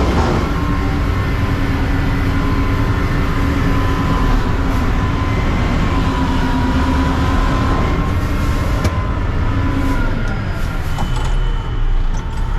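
Mack CNG front-load recycling truck running, with a steady whine over the engine that drops away about ten seconds in.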